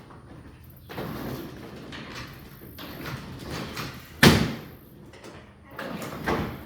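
Garage door being moved along its tracks, its worn rollers running rough and rumbling in stretches, with one sharp bang about four seconds in. The rough rolling is the sign of worn rollers due for replacement.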